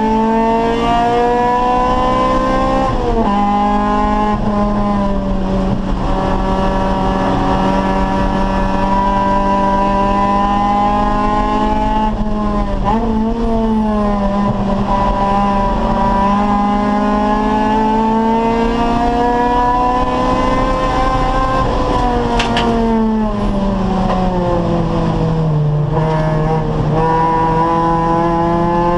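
Acura Integra Type R race car's four-cylinder engine at racing speed, pulling hard with its pitch rising. It drops sharply at gear changes about three and twelve seconds in, and falls off for a few seconds past the twenty-second mark as the car slows for a corner.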